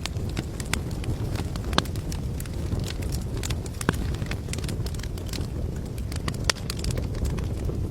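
Wood fire burning with a steady low rumble and irregular sharp crackles and pops, several of them louder than the rest.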